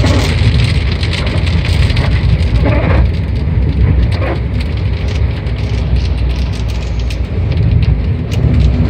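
Car driving in heavy rain, heard from inside the cabin: a steady low road rumble under the hiss of rain, with many small ticks of drops striking the car.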